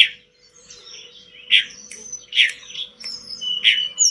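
Tledekan gunung songbird singing: four sharp, loud chip notes mixed with thin high whistled phrases, over a faint steady hum.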